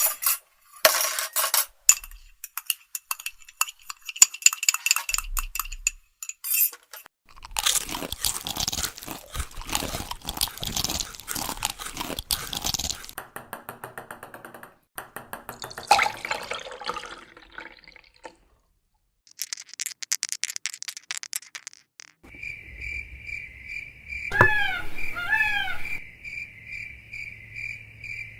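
A run of short, unrelated sound effects one after another: clicks and rattles, a long noisy rush, several brief sounds, then a steady pulsing trill with two falling chirps over it about three quarters of the way through.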